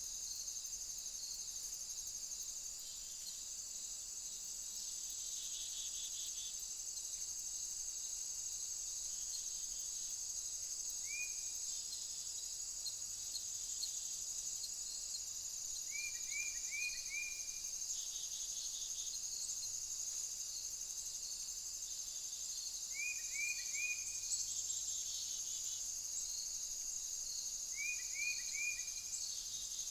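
A steady, high-pitched chorus of insects, likely crickets, trilling continuously. Over it, short groups of three or four quick falling chirps recur about every five or six seconds.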